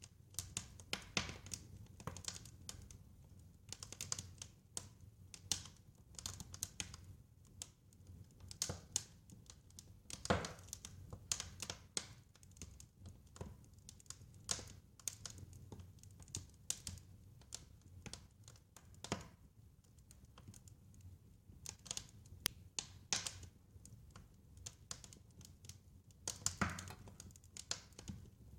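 Wood fire crackling: irregular sharp snaps and pops over a low, steady rumble of flame, with a couple of louder pops, one about ten seconds in and one near the end.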